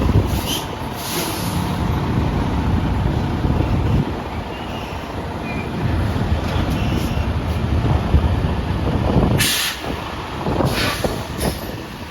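Semi-truck diesel engine running as the tractor-trailer is manoeuvred, with a short sharp hiss of compressed air from the air brakes about nine and a half seconds in.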